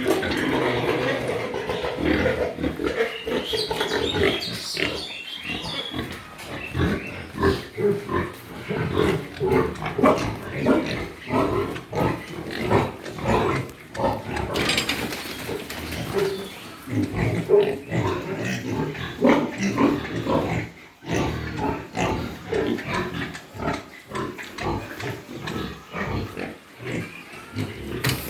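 Many pigs grunting and squealing continuously, some sharp high squeals in the first few seconds.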